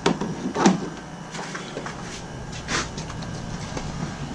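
Handling knocks and clatter from plumbing work: a sharp knock at the start, another just after, then a brief scrape and a few light ticks, over a steady background hum.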